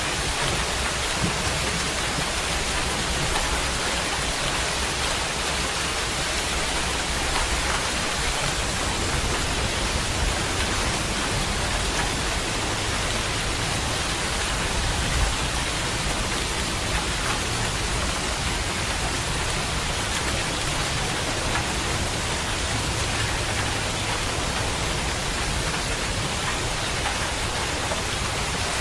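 Steady heavy rain falling, an even unbroken hiss with a low rumble underneath.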